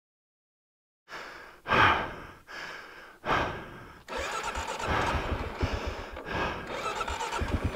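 Four heavy breaths into the helmet microphone, then about four seconds in the 2022 Kawasaki KLR 650's single-cylinder engine fires up and keeps running with an even low pulse.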